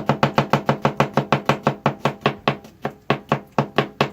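Knife chopping rapidly on a cutting board, an even run of sharp knocks at about seven a second, most likely mincing a shallot.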